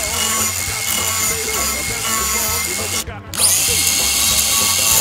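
A DeWalt cordless angle grinder runs with a steady whine as it grinds out the bowl of a walnut spoon. The sound drops out briefly a little past halfway, then picks up again. Background music with a singing voice plays under it.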